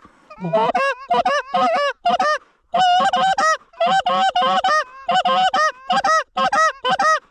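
Loud, rapid Canada goose honks and clucks in quick runs of about four or five a second, with short breaks between runs.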